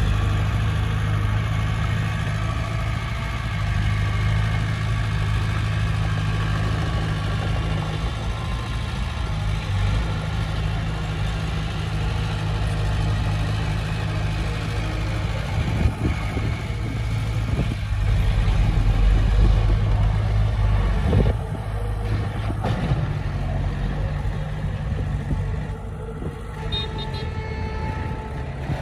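Heavy diesel engine of earthmoving machinery running steadily under work, with a few knocks and shifts in engine load in the second half.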